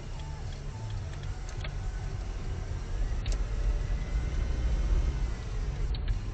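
A motor vehicle's engine running with a low, steady rumble that grows a little louder toward the end, with a few faint clicks.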